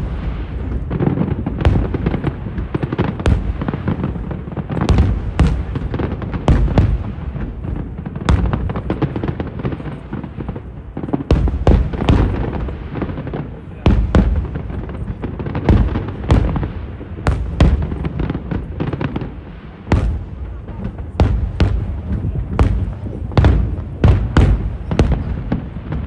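Aerial fireworks shells bursting in quick succession: many sharp bangs, some in dense clusters, over a continuous low rumble of booms and echoes.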